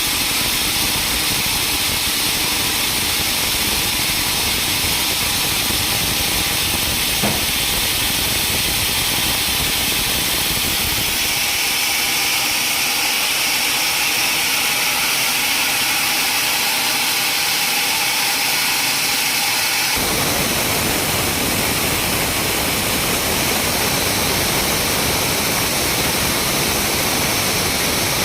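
Sawmill machinery running with a steady, loud, hissing noise. About eleven seconds in the low rumble falls away and a higher hiss takes over. About twenty seconds in it switches suddenly back to a fuller, even noise.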